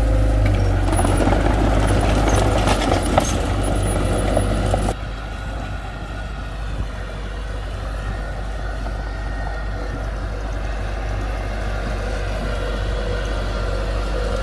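Heavy diesel engine running, louder and busier for the first five seconds with a few clicks, then dropping suddenly to a quieter, steady run.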